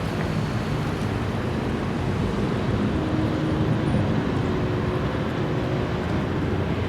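A steady low rumble that swells a little midway.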